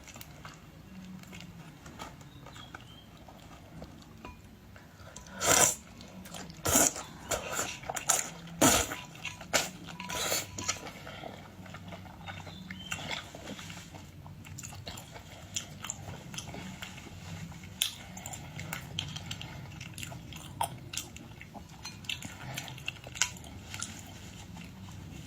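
A person biting and chewing boiled seafood up close, with a run of loud, sharp crunches about five to eleven seconds in, then softer, irregular chewing.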